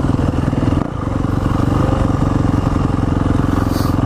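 Dirt bike engine running steadily at low revs close by, with a brief dip in loudness about a second in.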